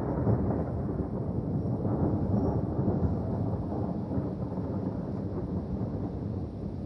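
Thunder rumbling, swelling right at the start and again a couple of seconds in, then slowly rolling away.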